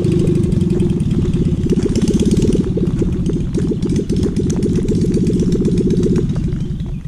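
Citroën 2CV air-cooled flat-twin engine in a home-built motorcycle, running with a rapid, even beat as the bike rides off, fading near the end.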